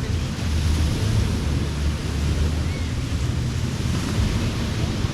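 Ocean surf washing steadily onto the beach, with wind buffeting the microphone as a low rumble underneath.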